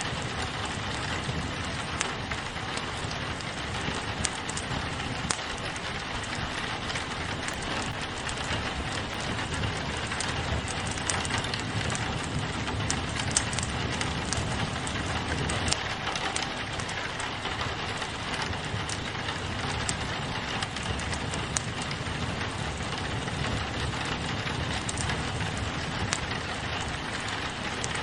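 Steady rain pattering on a window together with a crackling wood fire: an even hiss of rain with frequent small sharp ticks and pops scattered through it.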